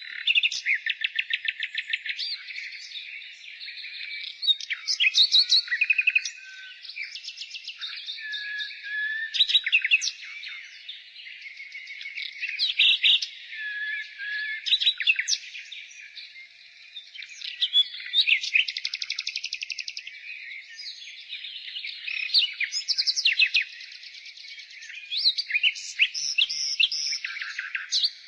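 Nightingale singing: phrase after phrase of fast repeated notes and trills, every few seconds, with a few short pure whistles between them.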